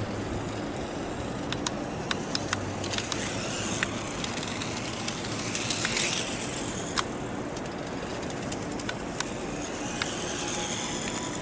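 Small toy RC motorcycle running, a steady noisy rush from its electric motor and tyres, with scattered sharp clicks and a louder swell about six seconds in.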